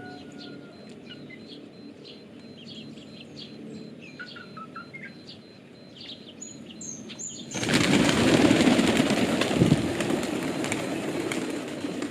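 Small birds chirping faintly, then about seven and a half seconds in a sudden loud rush of pigeon wings flapping that goes on to the end.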